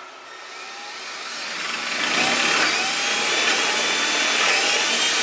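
Electric power drill running. It speeds up over the first two seconds, then holds at a steady high speed with a slight wavering whine.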